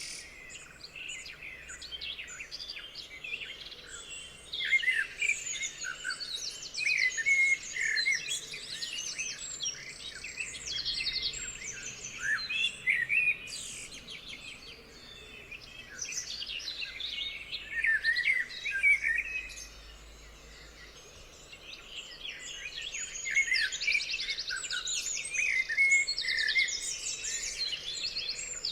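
Several songbirds singing at once: a dense chorus of chirps, whistles and rapid trills, with a short lull about two-thirds of the way through.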